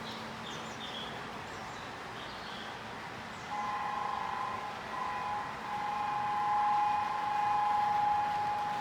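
Two-tone train horn sounding from the model railway layout's sound system, starting about three and a half seconds in and held for several seconds with a brief dip. Faint birdsong chirps over a steady hiss come before it.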